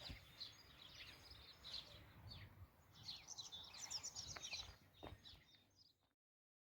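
Faint birds chirping and singing in quick, overlapping calls over a low outdoor rumble. The sound cuts off abruptly to dead silence about six seconds in.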